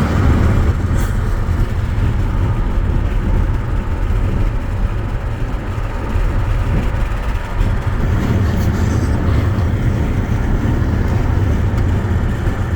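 Wind rushing in through an open car window while driving, a loud, steady low rumble buffeting the microphone over the road noise.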